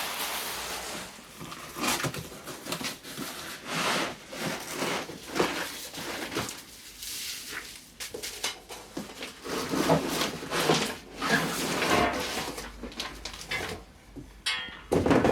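Irregular knocks, clatters and scrapes of packaging and parts being handled and set down, a few sharp hits to the second with short rustling bursts between.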